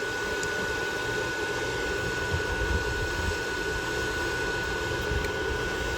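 Steady whooshing background noise with a thin, constant high whine.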